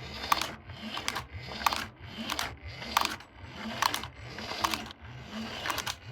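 A small motorised toy mechanism running with a low steady hum and a regular click about every two-thirds of a second.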